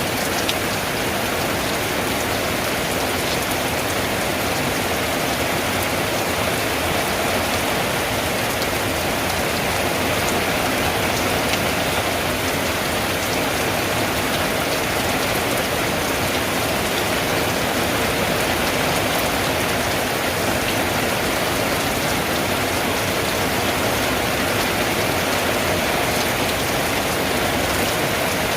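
Steady rain drumming on a tin roof, a dense even patter of drops that keeps up without a break.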